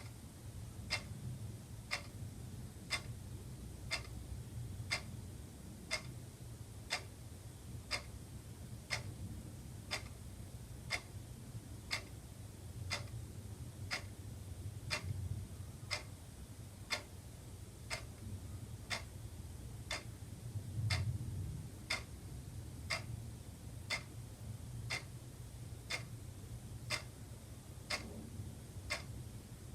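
Wall clock ticking, an even run of sharp ticks about once a second.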